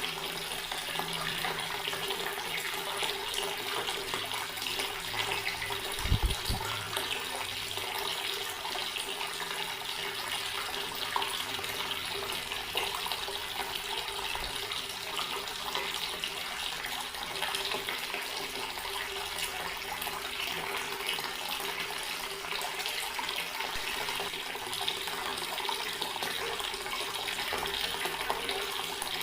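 Water running steadily from a tap and splashing, with one short low thump about six seconds in.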